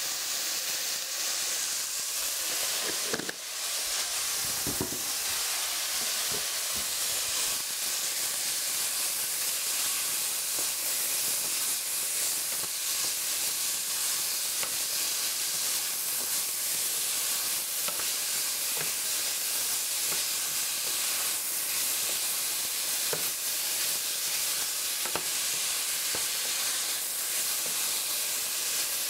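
Mixed vegetables sizzling steadily as they stir-fry in a stainless steel pan. A wooden spatula stirs them, scraping and tapping against the pan now and then.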